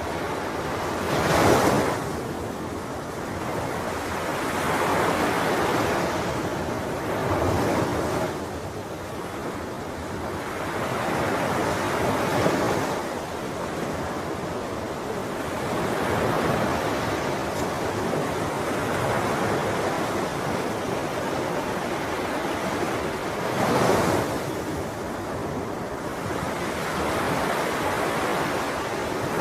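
Ocean waves breaking and washing on a shore, a steady rush of surf swelling with louder breakers every few seconds, most sharply about a second and a half in, around twelve seconds in and near the end. Some wind buffets the microphone.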